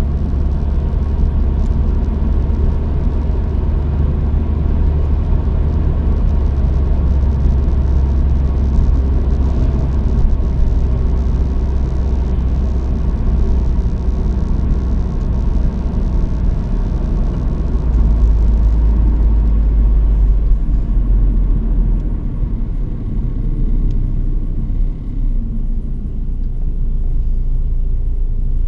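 A truck's engine and road noise picked up by a dash cam in the cab: a steady low rumble. About two thirds of the way through the rumble deepens and the higher hiss falls away.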